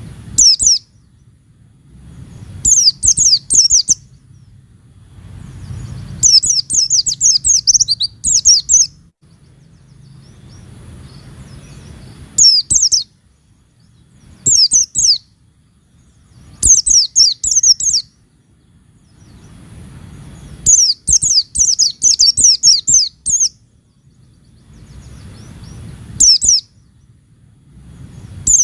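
White-eye (pleci) singing in repeated quick phrases of rapid, high, downward-sweeping chirps, about nine phrases with short pauses between them.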